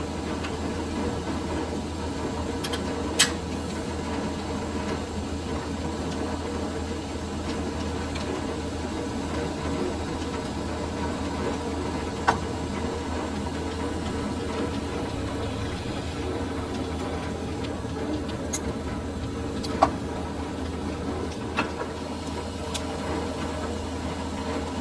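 Metal lathe running with a steady hum. A few sharp metallic clicks cut through it, the loudest about three, twelve and twenty seconds in.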